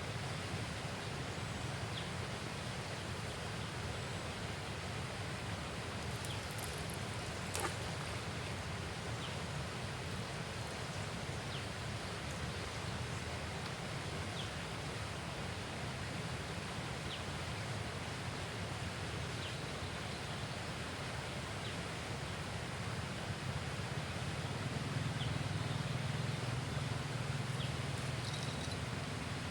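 Steady outdoor riverside ambience: an even hiss of wind and leaves, with a faint short high chirp repeating every second or two and a single sharp click about a third of the way in. A low hum swells for a few seconds near the end.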